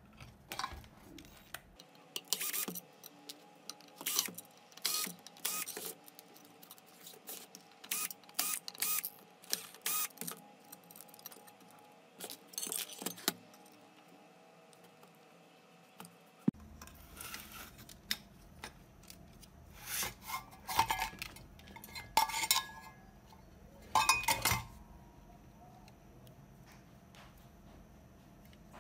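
Irregular light metallic clicks and clatter, like small tools and parts being handled on a workbench, over a faint steady hum.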